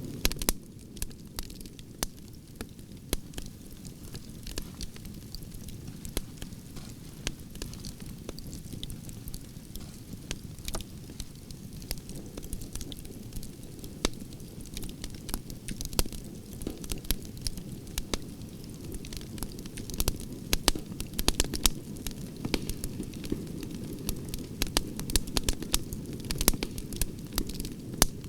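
Branches burning in a campfire: a steady low rush of flames with frequent sharp, irregular crackles and pops from the burning wood.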